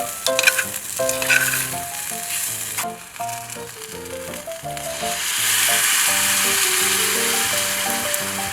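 Food sizzling in a pan, the hiss swelling loud from about five seconds in, over background music with a light melody; a few sharp clicks sound in the first second or so.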